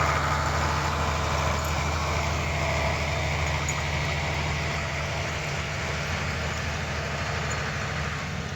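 Engine of farm machinery running steadily at a low even hum, slowly getting quieter across the few seconds.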